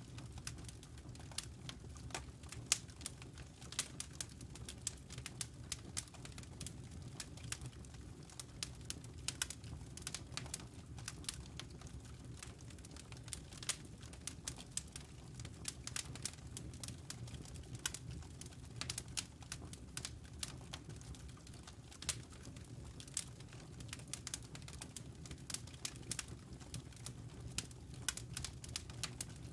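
Campfire of burning wood and embers crackling, with dense irregular pops and snaps over a steady low rumble.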